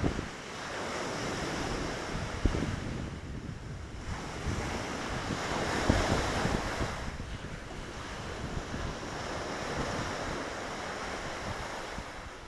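Lake Victoria waves washing onto the shore, one wash swelling and falling back about six seconds in, with wind gusting on the microphone.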